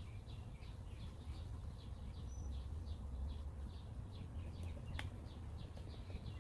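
A small bird chirping over and over, short falling notes about three or four a second, over a steady low rumble. A single sharp click sounds about five seconds in.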